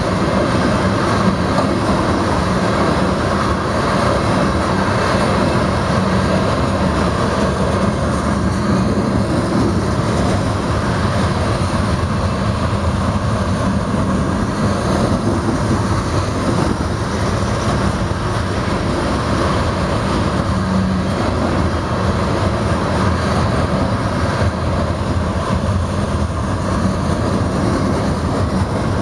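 Empty steel coal hopper cars of a freight train rolling past: a steady rumble and clatter of wheels on the rails.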